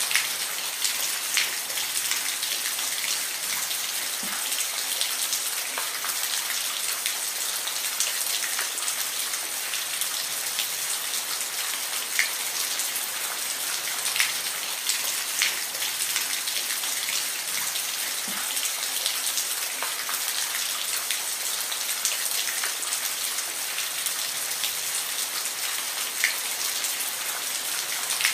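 Steady rain falling, a dense even hiss with scattered individual drops ticking sharply on a surface.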